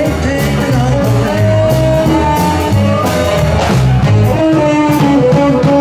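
Band playing a blues-flavoured instrumental passage: guitar lead over a steady stepping bass line and drums with cymbal strikes.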